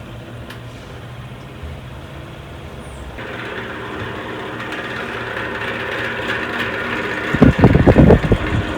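Restored Emerson Electric 77648 electric desk fan running, a steady motor hum with a rush of air that grows louder about three seconds in. Near the end come loud, irregular low thumps.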